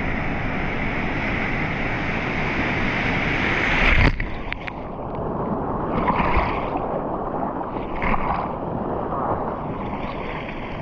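A large ocean wave breaking over a rocky shore, its white water rushing loudly. About four seconds in the rush cuts off suddenly and turns muffled, with two churning surges of water after it.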